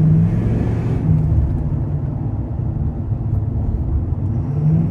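Engine and road noise of a moving car heard from inside the cabin: a steady low drone that swells slightly near the start, about a second in, and again near the end.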